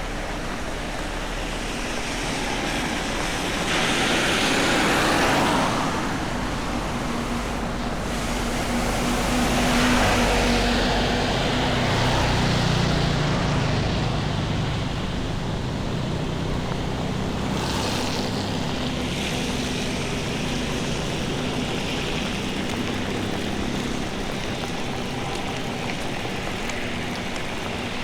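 Steady wash of rain and running water. It swells into a louder hiss twice, a few seconds in and again around ten seconds, and the second swell carries a low engine hum, like a vehicle going past on a wet road.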